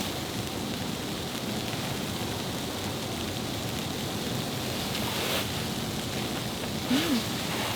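Steady, even hiss of a snowstorm, with wind and falling snow on the campsite. Near the end comes a brief hummed voice sound.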